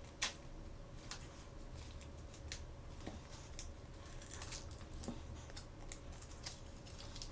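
Hands unwrapping small toy packaging: scattered plastic crinkles and small clicks, with one sharper click just after the start and a busier run of crinkling about four to five seconds in.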